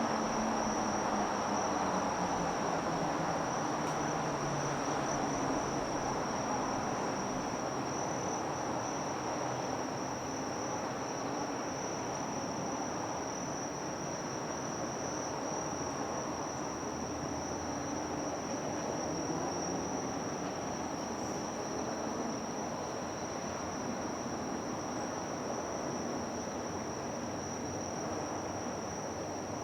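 Insects, cricket-like, trilling steadily at one high pitch over a broad, even background rumble that eases slightly over the first ten seconds.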